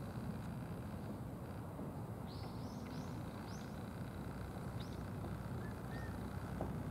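A small bird chirping: a quick run of about five short, high chirps a little over two seconds in, then a few fainter single chirps, over a steady low outdoor rumble.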